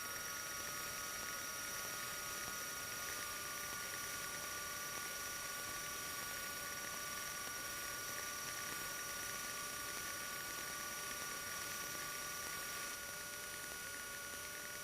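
Steady, low-level hum with a faint high whine in the cockpit of a 1977 Cessna 150 taxiing, the engine heard muffled as through the headset audio. It drops slightly in level near the end.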